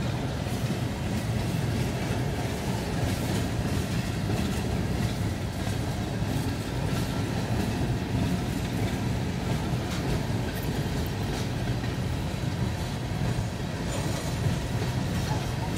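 Freight train cars rolling past on the track: a steady rumble with wheels clicking over the rail joints.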